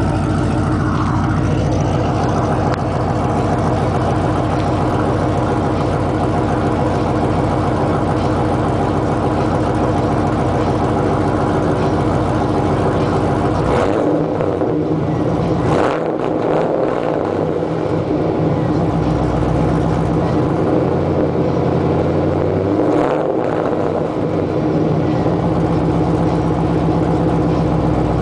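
1999 Camaro SS's LS1 V8 idling through an aftermarket bolt-on exhaust, a steady low burble, with a couple of low revs about halfway through and again later.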